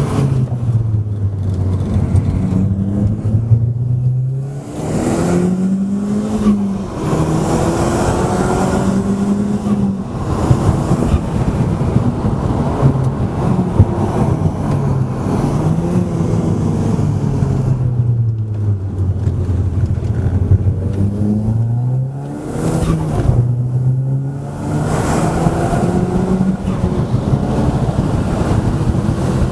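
Audi S3 8P's turbocharged 2.0-litre four-cylinder, tuned to 350 hp, driven hard and heard from inside the cabin. The engine note climbs through the gears with short dips at each shift, holds steady, then falls away as the car slows, several times over.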